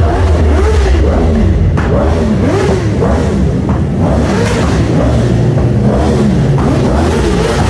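Litre-class inline-four sport motorcycle engine revved hard through a loud aftermarket exhaust, its pitch rising and falling in quick, repeated blips.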